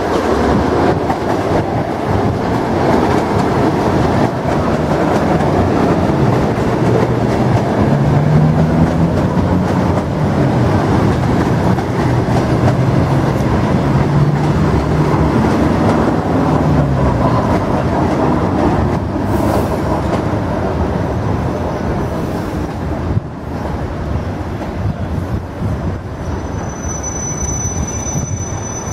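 Electric commuter train pulling in along the platform and slowing, its wheels rumbling on the rails. A low hum wavers in pitch through the middle, and a thin high squeal starts near the end as it slows to a stop.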